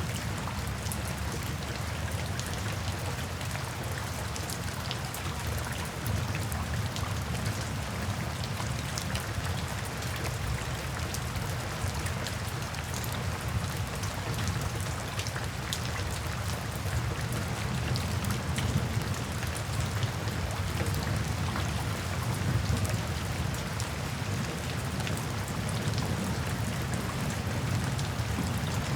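Steady rain falling, with many individual drops ticking, over a continuous low rumble.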